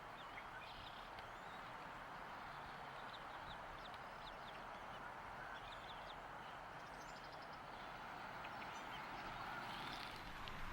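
Faint, short, high-pitched bird chirps, many of them scattered irregularly, over a steady outdoor hiss.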